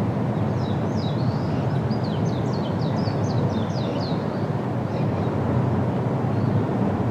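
Steady wind with a low rumble in an autumn forest. From about half a second in, a small songbird sings a rapid series of short falling high notes, about four a second, for roughly three and a half seconds.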